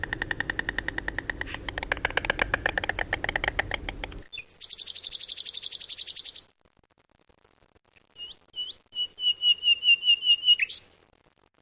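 Songbirds singing fast trills of rapidly repeated notes, one song after another, with a low rumble under the first. There is a pause of about a second and a half in the middle; after it come two short rising notes and a higher trill that stops abruptly.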